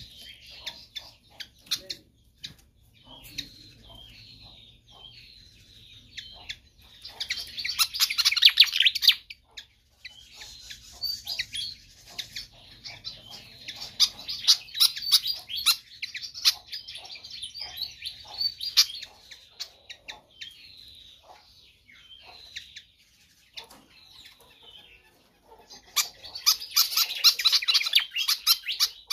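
Fantail singing persistently: a string of short, high chirping notes, with two dense, rapid chattering runs, one about a quarter of the way in and one near the end.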